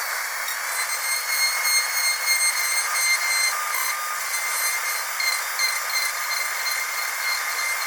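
High-speed dental drill running with a steady high-pitched whine over a hiss.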